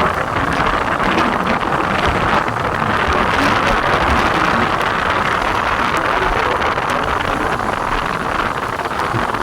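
Heavy rain falling in a steady hiss, with wind buffeting the microphone.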